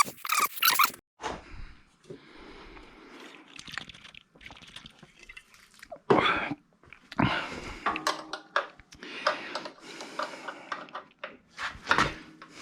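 Hand tools and loose metal parts clicking, knocking and scraping while work goes on at a mower engine, with a quick run of clicks in the first second and scattered knocks after.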